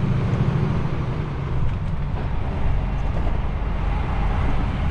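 DAF XF truck's diesel engine running under way, heard as a steady low rumble from inside the cab. Its pitch drops lower a little past halfway.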